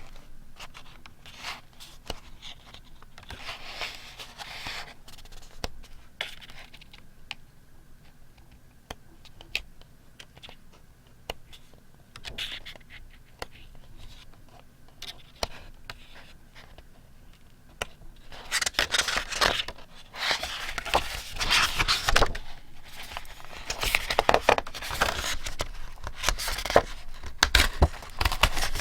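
Paper being handled close to the microphone for scrapbook journaling. For the first two-thirds there are scattered light taps and short scrapes; from about two-thirds of the way in, louder, continuous paper rustling and crinkling follows.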